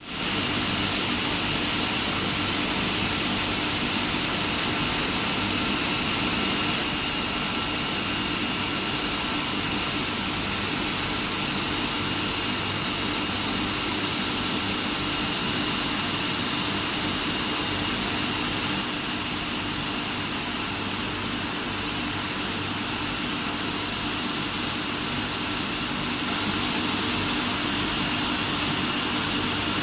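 Steel plate induction quenching furnace line running: a steady mechanical rush with a constant high-pitched whine over it.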